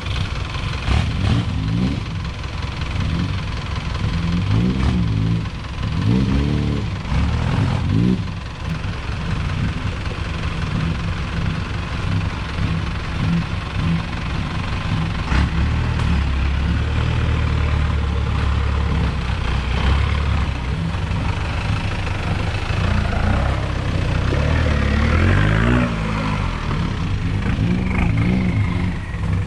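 A 4x4 off-road vehicle's engine running while the vehicle is under way. Its pitch rises and falls several times, with a steadier, lower stretch about halfway through.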